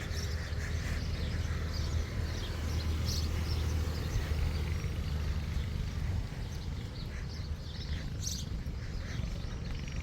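Birds chirping in short scattered calls over a steady low rumble that eases off about six seconds in.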